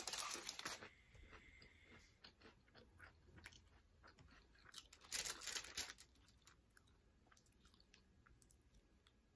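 Close-up chewing of a mouthful of crisp tortilla-chip nachos: crunching in the first second, another crunchy spell about five seconds in, and soft mouth clicks between.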